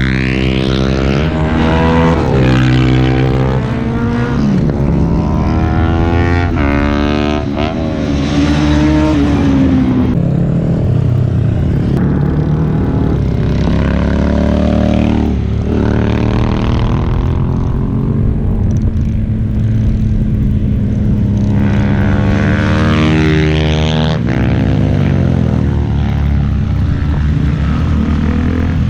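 Superbike engine accelerating through the gears: its pitch climbs, drops at each shift and climbs again, several times over, with a few easing-off spells in between.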